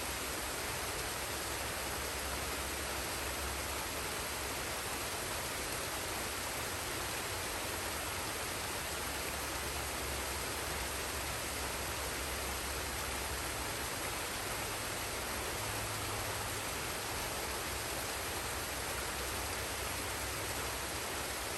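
Forest waterfall and stream: a steady, even rush of falling and flowing water.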